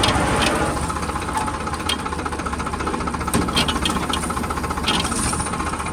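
Farmtrac 60 PowerMaxx tractor's diesel engine running steadily under load while pulling a 16-inch mouldboard plough in second gear, with a few light clicks over the engine sound.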